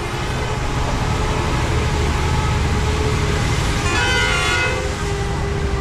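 Road vehicle running with a steady low rumble, and a horn honking briefly about four seconds in.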